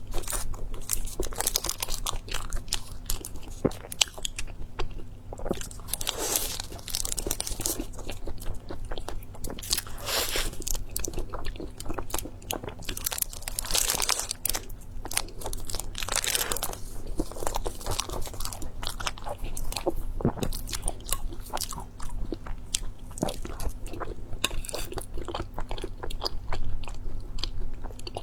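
Close-miked person chewing and biting crunchy food, with many quick crisp crunches and a few longer crunching bursts.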